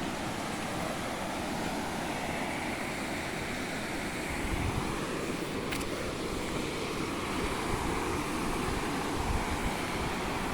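Wind buffeting the microphone in low gusts, strongest about halfway through and near the end, over a steady rushing hiss.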